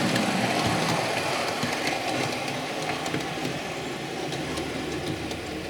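Model HST train running on the track of a model railway helix, a steady motor and wheel hum with a few faint clicks, slowly fading as the train moves away.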